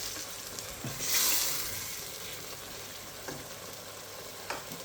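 Curry sauce of pureed onion, curry powder and water simmering and sizzling in a pan, a steady hiss that swells louder for a moment about a second in, with a few faint clicks.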